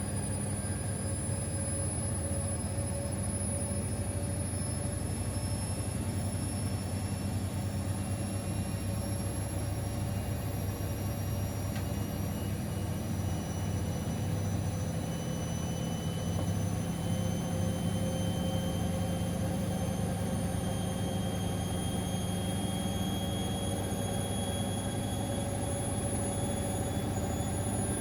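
Siemens XLS 140 A washing machine running with its drum turning continuously: a steady low hum under a motor whine whose pitch rises slowly and evenly, the drum gradually speeding up as in a spin.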